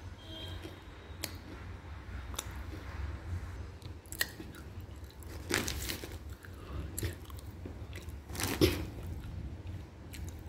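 Close-up mouth sounds of a person chewing and crunching pieces of edible clay: irregular crunches and clicks, with the loudest crunches a little past halfway and again near the end.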